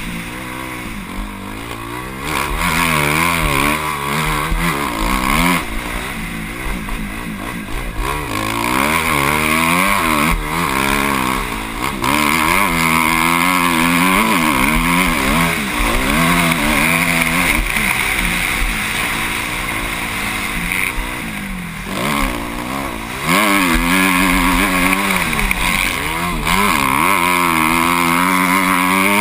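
Motocross bike engine heard from a helmet camera, revving up and falling off over and over as the throttle is worked, with a steady rush of wind noise. About three-quarters of the way through the engine briefly drops off, then revs hard again.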